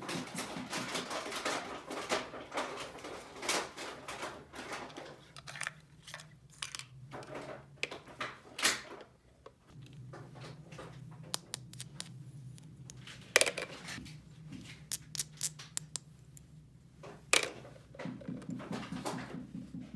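Small plastic toy pieces being handled: rustling for the first few seconds, then scattered sharp clicks and taps as parts are set down and fitted together.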